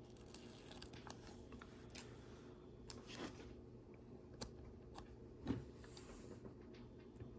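Faint handling noises of small plastic LEGO parts and a sticker sheet: soft rustling with a few light clicks, the clearest about three, four and a half and five and a half seconds in.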